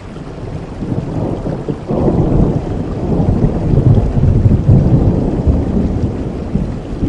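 Steady rainfall with a long roll of thunder that swells about two seconds in and rumbles on.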